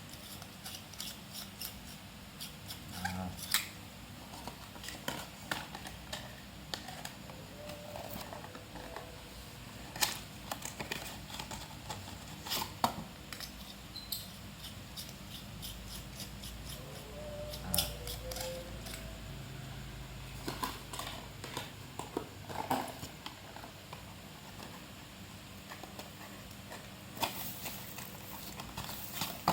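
Hands opening and handling cardboard and plastic bulb packaging: irregular sharp clicks, taps and rustles over a steady low hum.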